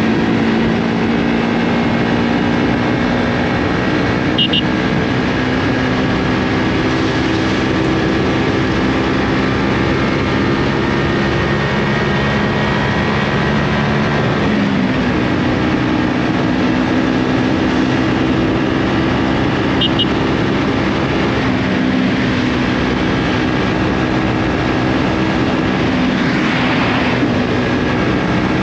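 KTM motorcycle engine running steadily through an Akrapovic aftermarket exhaust, a continuous drone whose pitch drops slightly right at the start and steps up a little about halfway through.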